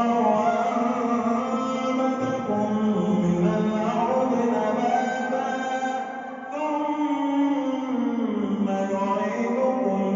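A man's voice reciting the Quran aloud in a long, melodic chant, as an imam recites in prayer. It runs in long held phrases gliding up and down in pitch, with a brief breath pause about six seconds in.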